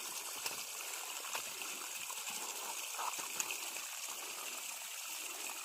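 Water running and falling steadily, with small splashes as hands are washed in it.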